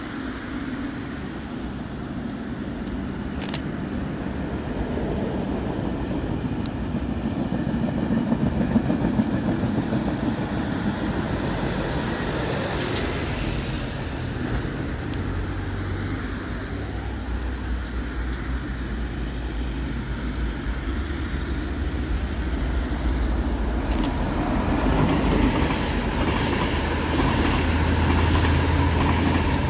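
Passenger train running on the line, its rumble growing steadily louder as it approaches. A low steady hum builds in the second half.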